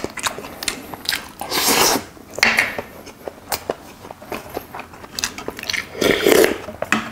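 Close-miked eating sounds: a mouthful of cockle bibimbap being chewed, with many short wet clicks and smacks. Near the end there is a brief slurp from a spoon of seafood soup.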